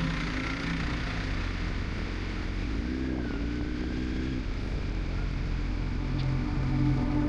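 Kawasaki Z900's inline-four engine running under way, with a brief rise and fall in pitch about three seconds in.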